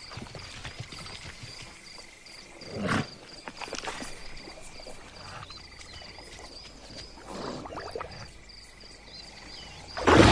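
Crickets chirping in a steady, pulsing high trill, with a short louder animal sound about three seconds in and another near eight seconds.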